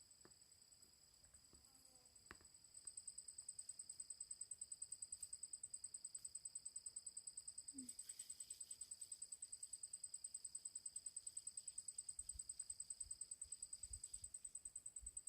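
Faint, high-pitched insect chirping that pulses rapidly and evenly, getting louder about three seconds in. There are a couple of faint clicks near the start.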